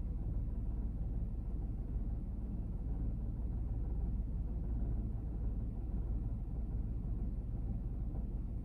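Honda N-BOX (JF1) with its S07A three-cylinder kei-car engine, heard from inside the cabin as a steady low rumble with no revving or changes.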